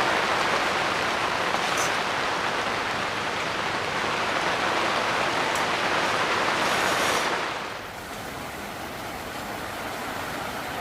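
Heavy rain falling steadily, a dense even hiss. About seven and a half seconds in it drops noticeably quieter and duller and carries on at that lower level.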